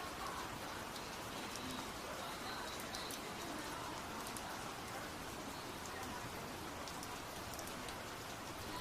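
Heavy rain falling steadily, a dense even hiss with scattered drop ticks on hard surfaces.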